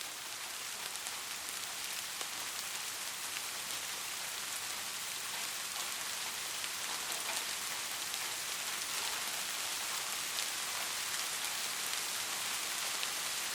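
Steady rain falling: a dense hiss with scattered ticks of individual drops, growing gradually louder.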